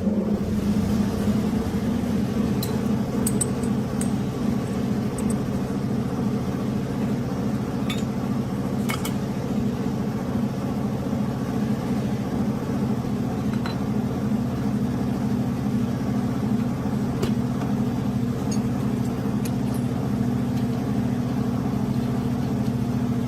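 A machine running steadily with a low, even hum, with a few faint light clicks of metal over it.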